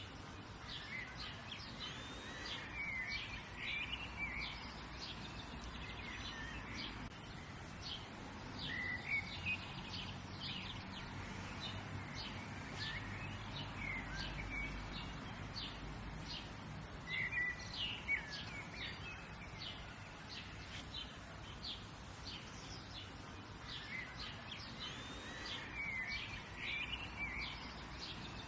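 Several songbirds chirping and singing in quick, overlapping calls, over a steady low background rumble.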